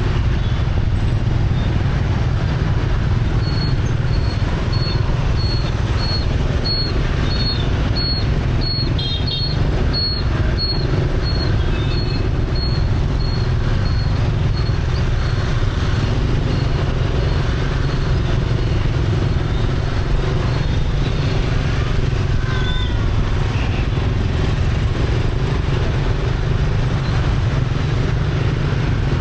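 Motorbike ride through city traffic: the bike's engine and the rumble of surrounding motorbikes and cars run steadily. For about ten seconds in the first half, a faint high beep repeats evenly, a little more than once a second.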